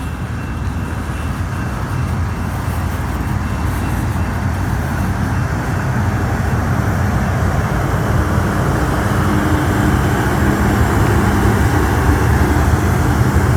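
Rear distributed-power diesel locomotive on a CSX coal train approaching and passing, its engine rumbling along with the wheels on the rails. The sound grows steadily louder, and the engine's hum comes through more plainly in the second half.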